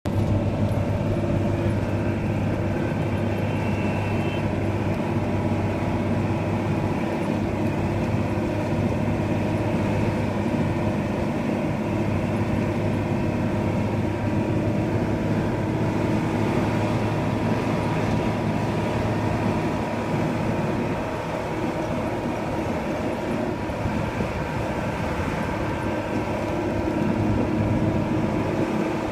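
Truck engine running steadily on the move, with a continuous low drone and road noise.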